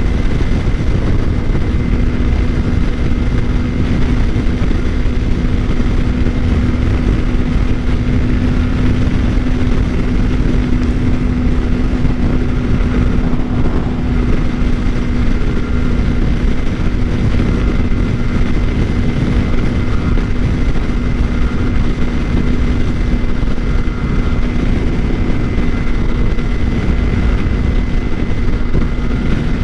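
Suzuki GSX-R600 inline-four holding a steady drone at highway cruising speed, about 85 mph, under heavy wind rush on the microphone. The pitch stays constant throughout.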